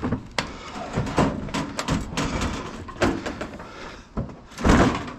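Knocks and clunks of a sheet-metal household appliance being handled and shifted, with a louder bang near the end.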